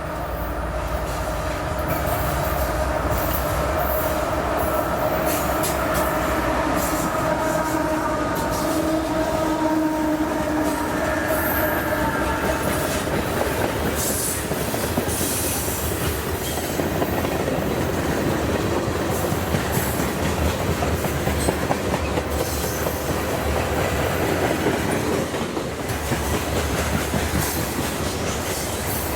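A CSX freight train passing. A steady pitched hum rides over the rumble for the first twelve seconds or so, then it gives way to the rush and clatter of rolling cars, with many quick wheel clicks.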